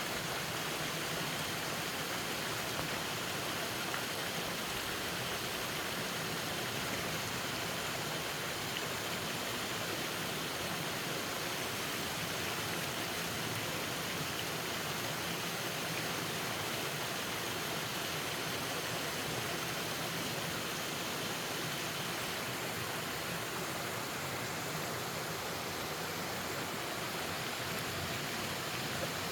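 Mountain valley stream rushing, a steady, unbroken water noise.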